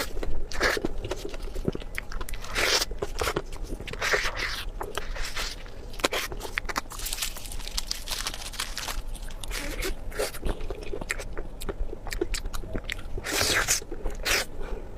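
Close-miked eating: crunchy bites and chewing that come in bursts every second or two.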